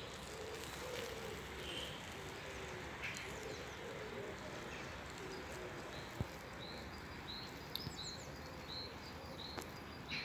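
A small bird chirping, a run of short high chirps about two a second in the second half, over a steady outdoor background hum.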